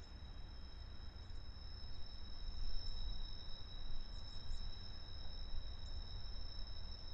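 Faint outdoor background: a low rumble under a steady high-pitched whine at two pitches, with a few faint chirps.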